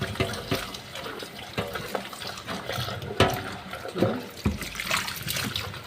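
Water running from a tap and splashing, with a few sharp knocks and clatters in between.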